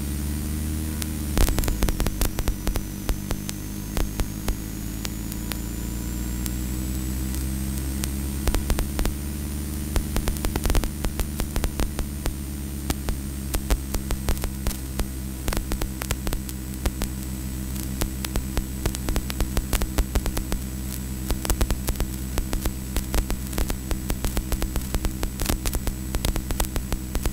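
Engine and running noise of a vehicle driving alongside the race track: a steady low hum that dips sharply in pitch about a second and a half in, then slowly climbs again, with frequent sharp clicks and knocks throughout.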